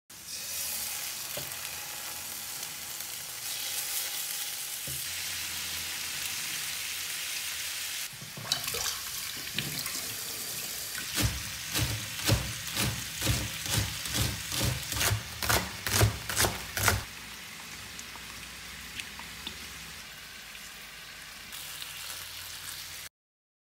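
Chicken drumsticks frying in oil in a non-stick pan, a steady sizzle. From about eight seconds in, a knife chops scallions on a plastic cutting board in a quick, even run of about two or three chops a second over the sizzle. The chopping then stops and the sizzle carries on more quietly.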